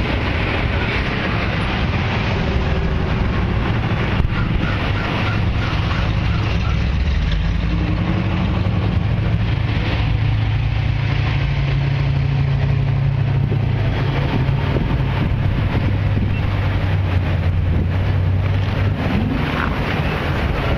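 Classic cars and a pickup truck cruising past one after another at low speed, their engines running with a low drone that shifts in pitch as each one goes by. Wind buffets the microphone.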